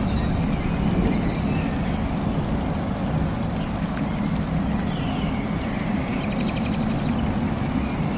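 Forest rainstorm ambience: a steady low rumble of rain and thunder, with faint high bird chirps and a short rapid trill about six and a half seconds in.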